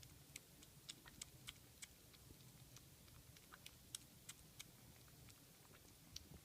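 Three-week-old kitten eating: faint, irregular small wet clicks of its mouth, several a second.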